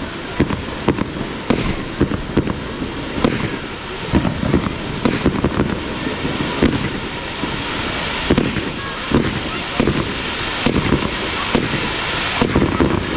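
Fireworks display in full flow: a rapid, irregular barrage of bangs, several a second, over a continuous crackle and hiss.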